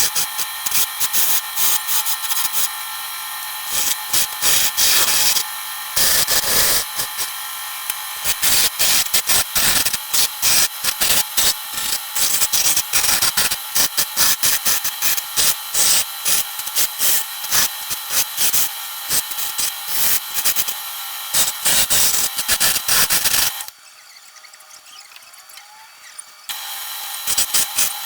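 Improvised wood lathe running with a steady high whine while a turning chisel cuts the spinning wood in rapid, irregular scraping strokes. Near the end it drops much quieter for about three seconds, then starts again.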